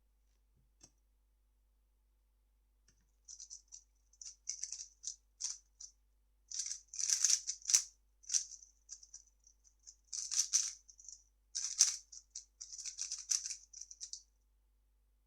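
A 3x3 speedcube being turned fast in a solve: rapid bursts of light plastic clicking and rattling, broken by short pauses, running for about eleven seconds before it stops.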